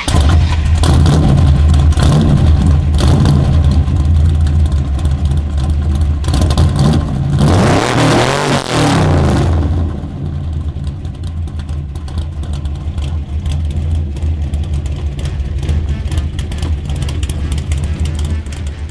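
Dodge Ram van's 5.2-litre V8 engine running with a deep, steady rumble. It swells sharply in pitch and loudness about eight seconds in, then settles back to a lower, steady run.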